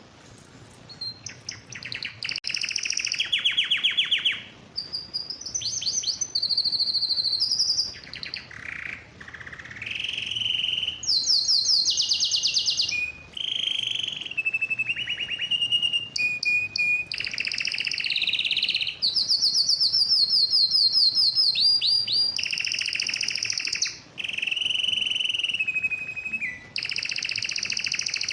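Male domestic canary in breeding condition singing a long song: one rapid trill after another, each phrase a second or two long and shifting in pitch, with barely a pause between them.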